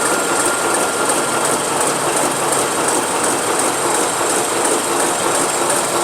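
Marine diesel engine running steadily on a test run, a loud dense mechanical clatter with a fast even ticking and a faint steady whine.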